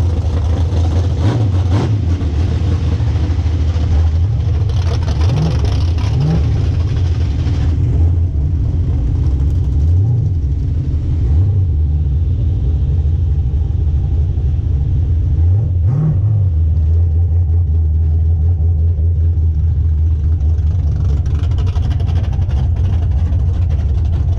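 A street-legal drag car's engine running at low speed with a deep, steady drone, its pitch rising briefly a few times as the throttle is blipped.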